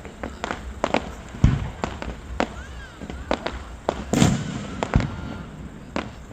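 Fireworks going off in a quick, irregular run of sharp bangs and cracks, the loudest boom about four seconds in.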